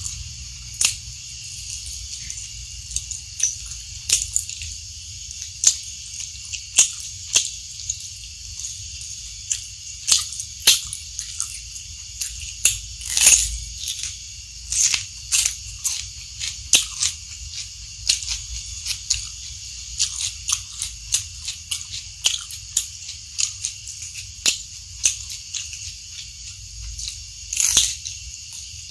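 Close-miked crunching and chewing of raw vegetables, including crisp yellow bell pepper, in irregular sharp crunches one to a few a second over a steady hiss.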